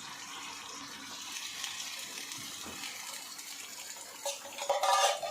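A whole can of corn tipped into a frying pan of minced chicken and onion, the pan hissing and sizzling steadily. A brief louder sound comes about four seconds in.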